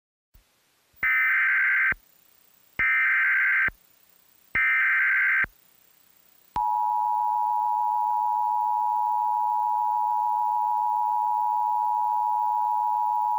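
Emergency Alert System header for a severe thunderstorm warning: three short bursts of warbling data tones about a second each, then a long, steady two-note attention tone.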